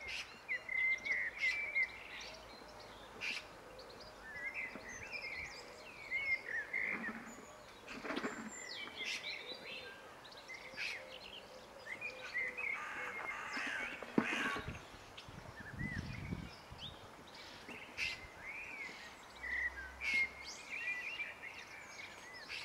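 Birds chirping repeatedly in short, high calls over a faint steady background, with a few light taps and a brief stretch of paper rustling from hands handling sheets on a desk.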